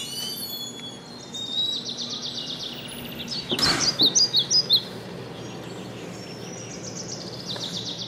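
Small birds chirping, with rapid high trills repeating and a cluster of louder chirps about four seconds in, over a steady low hum. A brief rush of noise comes just before the louder chirps.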